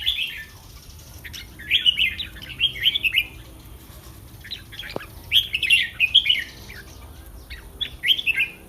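Caged red-whiskered bulbul singing short, bright warbling phrases, about five of them separated by brief pauses, with a single sharp click about halfway through.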